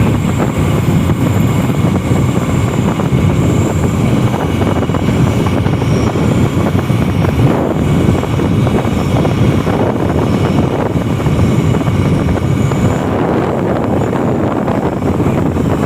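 Steady wind rush and road noise from riding on a motorcycle, with the engine running under it.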